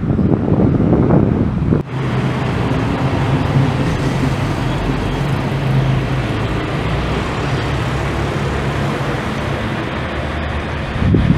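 Gusty wind buffeting the microphone for about two seconds. After an abrupt cut comes the steady rushing jet-engine noise of a landing airliner, with a low steady hum.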